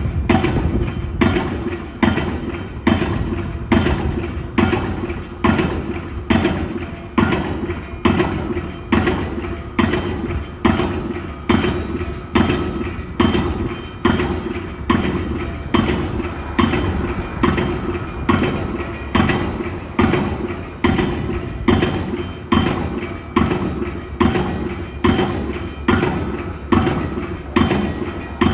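Steady, evenly paced hammering, about one and a half blows a second.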